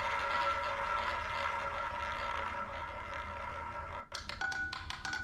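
Roulette ball running around the rim of the spinning wheel with a steady whirr, then about four seconds in it drops and clatters quickly across the frets and pockets as it settles.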